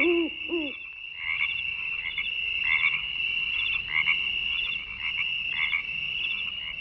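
Frogs calling in a chorus: short croaking calls repeat about every half second over a steady high-pitched trill. A few lower, hooting calls sound in the first second.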